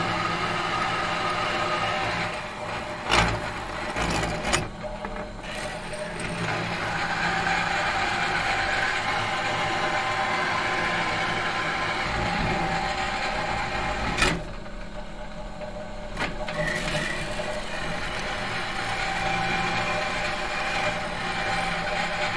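A machine motor running steadily, broken by a few sharp clicks or knocks, the loudest about three and fourteen seconds in. Its higher sound drops away briefly after a few of the clicks.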